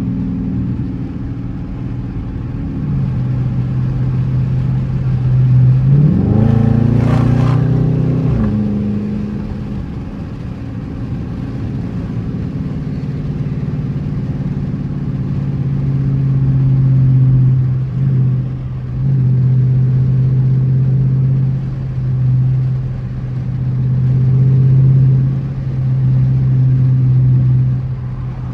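Dodge Charger R/T's 5.7-litre Hemi V8 running steadily while driving, with a quick rise in engine pitch about six seconds in that falls back about two seconds later; the engine note dips briefly a few times later.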